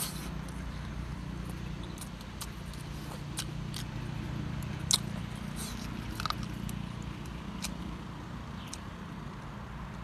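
A person chewing and smacking their lips close to the microphone. Scattered sharp, wet clicks sound over a steady low rumble.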